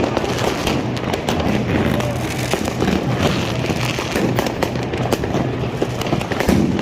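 New Year's Eve fireworks and firecrackers going off all around: a dense, constant crackle of many sharp bangs and pops with no pause.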